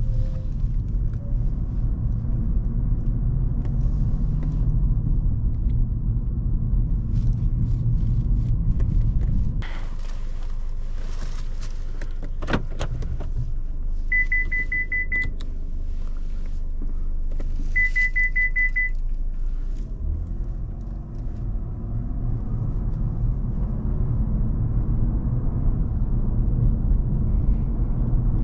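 Cadillac CTS twin-turbo 3.6 V6 driving, heard from inside the cabin as a steady low rumble of engine and road. About ten seconds in the rumble drops to a quieter idle, with a few clicks and two short runs of rapid electronic beeps from the car, then it builds again as the car pulls away.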